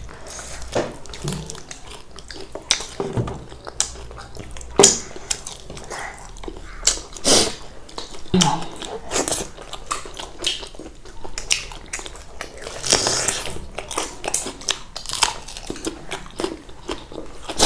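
Close-up eating sounds: irregular chewing, biting and lip-smacking clicks as chicken and rice are eaten by hand.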